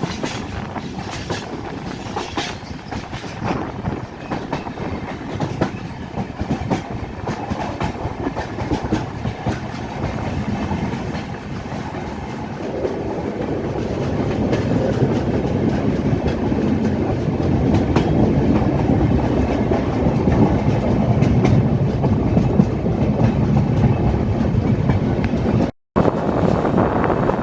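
Passenger train running, wheels clattering over rail joints with a steady rumble, heard from on board the coach. The rumble grows louder about halfway through, and the sound cuts out for an instant near the end.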